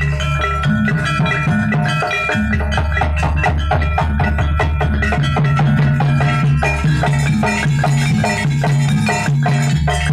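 Jaranan gamelan music played live: a fast, steady run of struck metal percussion and drums over sustained low gong-like tones.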